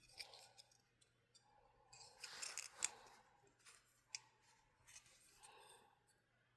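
Faint clicking and scraping of small parts being handled, with a brief scrape ending in a sharp click about two to three seconds in.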